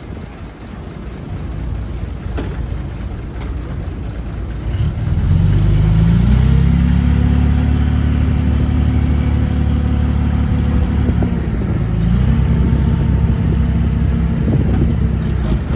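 Heavy diesel engine of earthmoving machinery rumbling low, then revving up about five seconds in and holding a high steady note. The note dips briefly around eleven seconds before coming back up.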